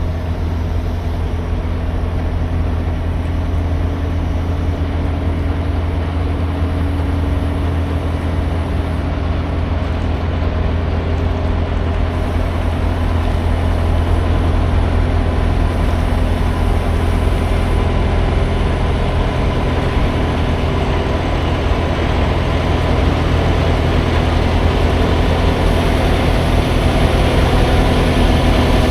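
Semi truck's diesel engine running steadily with a deep drone, slowly growing a little louder.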